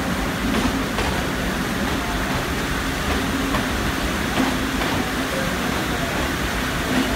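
Sri Lanka Railways passenger train rolling slowly along the track in heavy rain: a steady low rumble from the carriages under an even hiss of rain.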